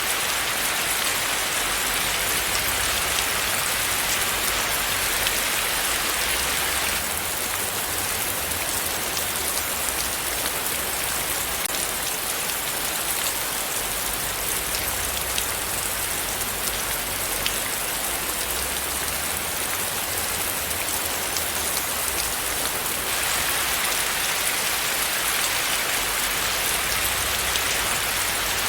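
Steady rain falling, a continuous hiss with the fine patter of individual drops striking a surface. It eases slightly for a long stretch in the middle, then picks back up.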